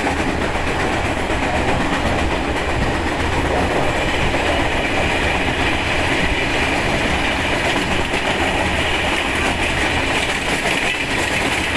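Steady rumble and rattle of a moving vehicle, heard from on board, holding even throughout with no speech.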